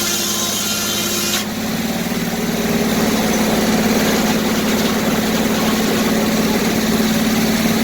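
Circular sawmill with a 48-inch inserted-tooth blade finishing a cut: the high cutting whine stops abruptly about a second and a half in. After that the mill's engine and free-spinning blade run steadily with a low hum.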